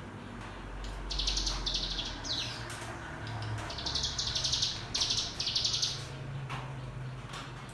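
Ciblek gunung (mountain prinia) singing its rapid buzzing trill, known to keepers as ngebren, in about six short, high-pitched bursts. One burst sweeps downward.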